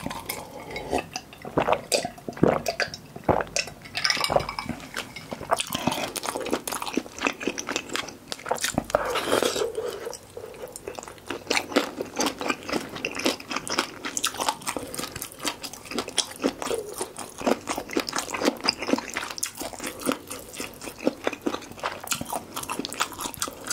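Close-miked eating sounds: crunchy chewing and biting, with a drink from a glass at the start and a spoon and chopsticks clinking in a bowl of malatang later on.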